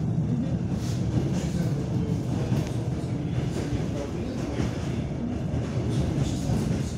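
Passenger train coach rolling along the track, heard from inside the carriage: a steady low rumble of wheels on rails, with occasional faint clicks.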